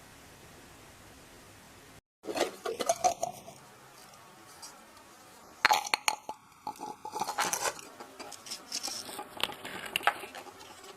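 Hard objects being handled and set down: irregular clicks, clinks and crinkling in three bursts, after a faint steady hiss that cuts off about two seconds in.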